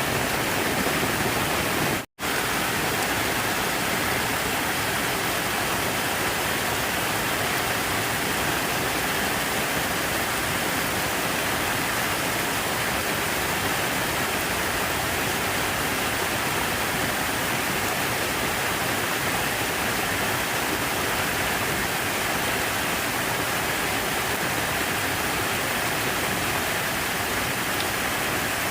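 Steady, even rush of falling water, as from a fountain or artificial waterfall. The sound cuts out for an instant about two seconds in.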